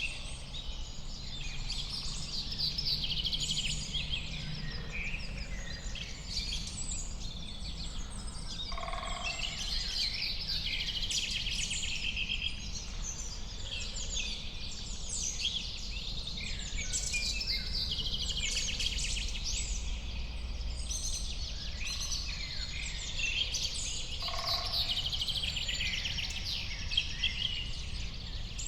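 A dense chorus of many wild songbirds singing and calling over one another, full of quick chirps, trills and whistles, over a low steady rumble. Twice, about nine seconds in and again near the end, a short lower-pitched call stands out.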